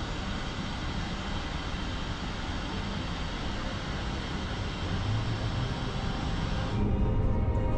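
Steady rushing noise over a low rumble aboard a car ferry under way, typical of wind and the ship's engines on the open deck. About seven seconds in, the rushing drops away and only the low rumble remains.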